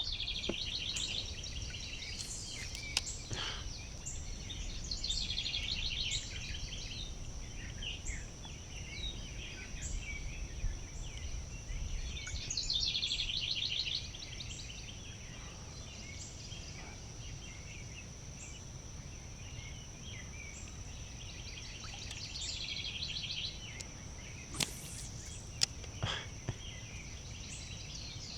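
Wild river ambience: a songbird repeats a short rapid trilled song every several seconds over a steady high-pitched insect drone, with a low wind rumble and a few faint clicks.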